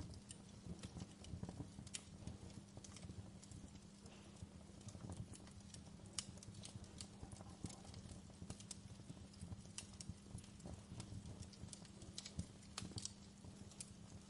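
Wood fire crackling: irregular sharp pops and snaps, several a second at uneven spacing, over a steady low rumble.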